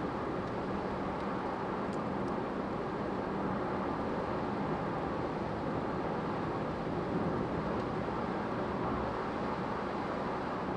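Steady cabin noise of a car driving on a wet road in the rain: an even rush of tyres and road with a low hum from the car underneath.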